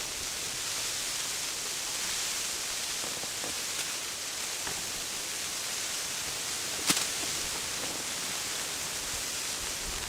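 A steady, even hiss, with one sharp click about seven seconds in.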